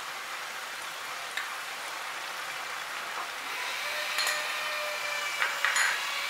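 Thick banana flower and potato curry sizzling steadily in a non-stick kadai over a gas flame turned up to dry it, with a few light clicks about four seconds in and near the end as a spoonful of ghee is dropped in.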